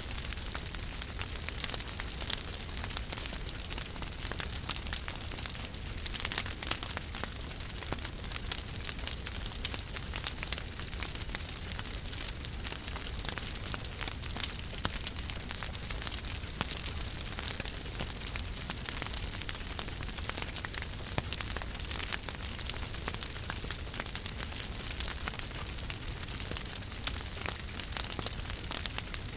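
Wood fire burning in a fireplace: steady crackling hiss with frequent small snaps and an occasional louder pop.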